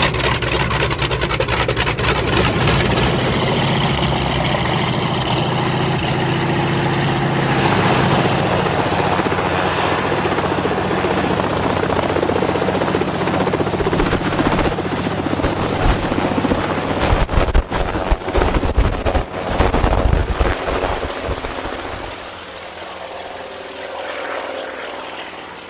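Sikorsky H-34 helicopter running, a steady loud mix of engine and rotor noise. A run of loud irregular thumps comes about three quarters of the way through, then the sound drops away and is quieter near the end.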